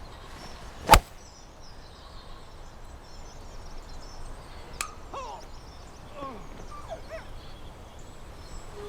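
A single sharp crack of a golf club striking a ball about a second in, then birds chirping in short falling notes over open-air ambience, with a fainter click midway.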